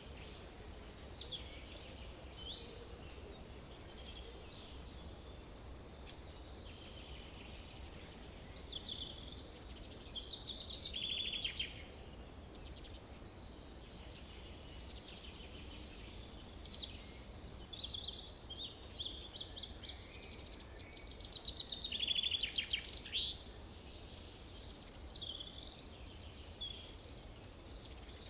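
Several songbirds singing, with many short chirps and whistles, a rapid trill about ten seconds in and a louder one about twenty-two seconds in, over a steady low background rumble.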